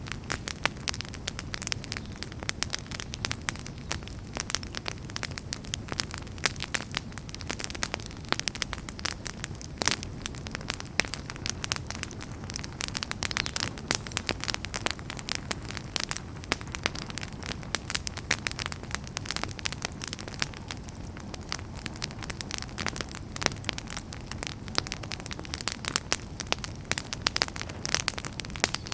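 Campfire burning with steady crackling and frequent sharp pops of burning firewood over a low rumble of flames.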